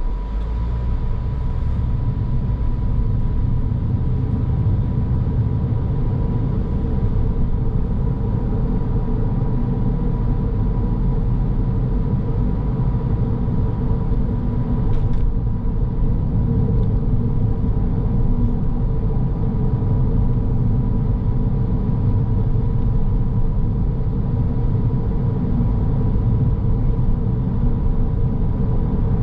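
Car driving on a road: steady low rumble of tyres and engine, with a thin steady tone running over it.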